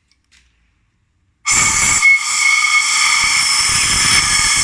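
A few faint clicks, then about a second and a half in compressed air starts hissing loudly and steadily, with a whistling edge. It is being blown into a repaired cylinder head to test whether an exhaust valve seals.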